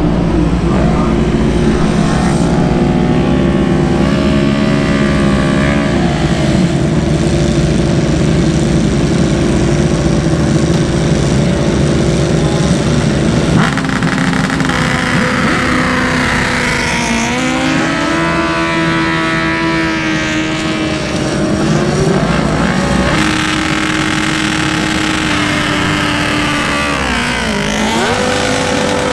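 BMW S1000RR superbike's inline-four engine running at high revs for a launch-start practice. The pitch holds, jumps up suddenly about halfway, steps up a couple more times, then drops and climbs again sharply near the end.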